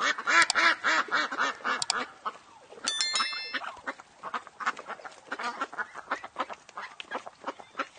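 Animal calls in quick succession, a fast run of short pitched calls in the first two seconds, then many shorter calls. A brief chime-like tone sounds about three seconds in.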